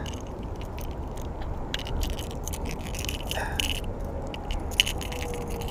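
Scattered small clicks and scrapes of a small largemouth bass being unhooked from a topwater spook lure by hand, over a steady low background rumble.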